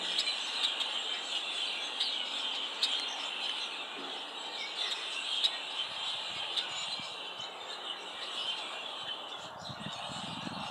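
A flock of small birds chirping, many short calls overlapping in a continuous chatter with sharp high chips scattered throughout.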